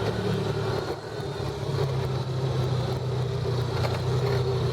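Off-road vehicle engine running at a steady, even speed while riding a trail, with road and wind noise over it.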